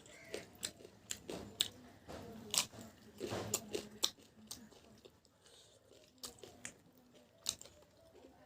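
A person chewing food close to the microphone, with sharp irregular crunches and smacks between softer chewing.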